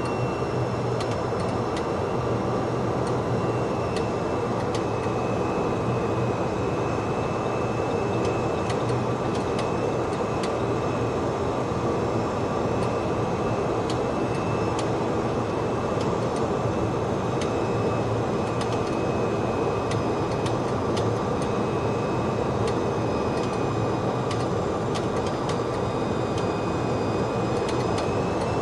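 Steady cockpit noise of a Boeing 737-200 on the ground after landing: its Pratt & Whitney JT8D engines running with a steady high whine over the hum, and scattered light clicks and rattles from the cabin.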